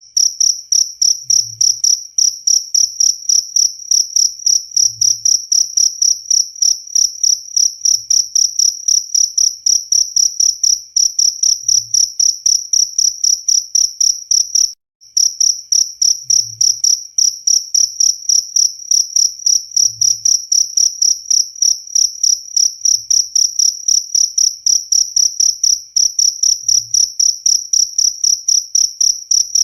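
Cricket chirping in a steady, even rhythm of high-pitched chirps, about three to four a second, broken once by a short gap about halfway through.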